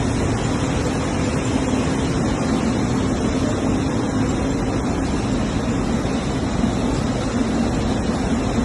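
Textile finishing machinery running: a steady, noisy hum with a constant low drone and no breaks.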